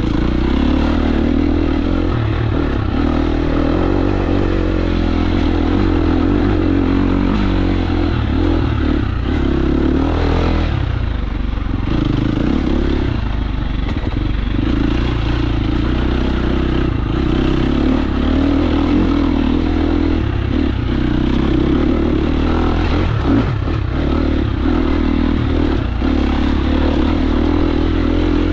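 KTM 350 SX-F's single-cylinder four-stroke engine running continuously under changing throttle while the dirt bike is ridden on a trail, the pitch rising and falling. Occasional clatter from the bike over rough ground.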